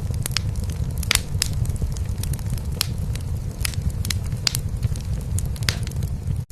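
Wood fire in a fireplace crackling, with irregular sharp pops, over a steady low purr of a domestic cat.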